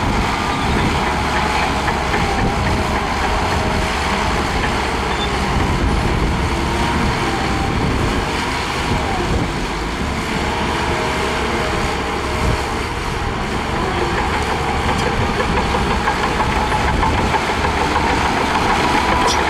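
Heavy diesel earthmoving machinery running steadily, a continuous engine sound with a faint whine around it.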